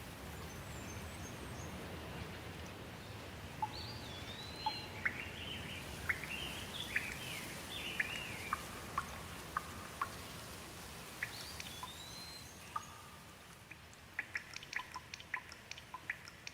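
Steady rain with a bird calling in short, swooping whistled notes through the middle. Near the end the rain thins and gives way to scattered quick drips.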